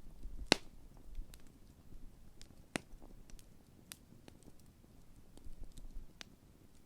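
Large wood campfire crackling: a sharp pop about half a second in, further pops near three, four and six seconds, and smaller ticks between, over a faint low rumble.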